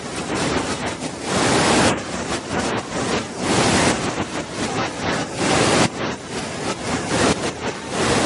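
Waterfall: a steady rush of falling water that swells and eases every second or so, with gusts of wind buffeting the microphone.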